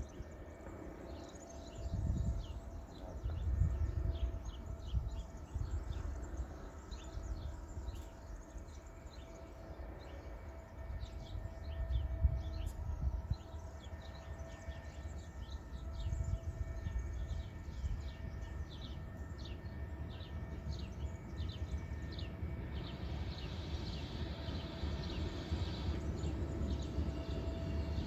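Small birds chirping in quick, repeated calls, with a few low rumbles, then an electric train approaching along the line: its rumble and rail hiss grow steadily over the last few seconds.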